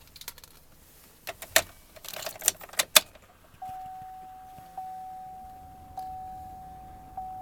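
Keys jingling and clicking into the ignition of a 2004 Chevrolet Tahoe, then, about three and a half seconds in, the dashboard warning chime begins: one steady tone struck again about every second and a quarter, each strike fading away, as the key is turned on.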